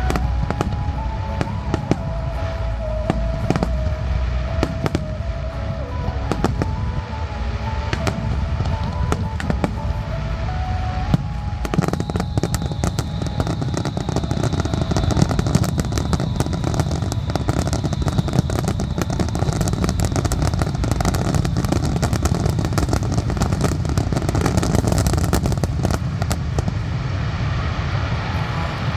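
Fireworks display: aerial shells bursting with many sharp bangs, over music for the first dozen seconds. About halfway in it becomes a dense, rapid run of crackling bursts.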